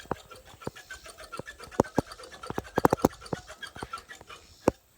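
Irregular clicks and knocks, thickest about halfway through, with one sharp knock near the end: rattling and handling noise from a bicycle ridden one-handed with a phone gripped in the other hand.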